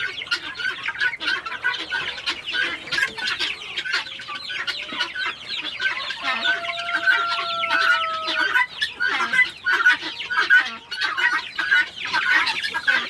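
A pen full of young chicks cheeping and peeping continuously, many short high calls overlapping. Around the middle, one held, slightly falling note lasts about two seconds over the cheeping.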